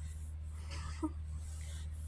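Faint rustling of a cat's fur being handled and brushed, over a steady low hum, with one short soft sound about a second in.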